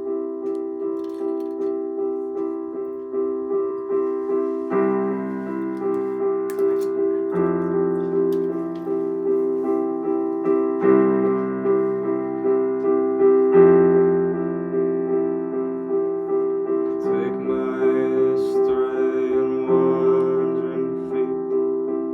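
Piano or electric keyboard playing a slow instrumental introduction: chords repeated a few times a second, with the bass note moving every few seconds.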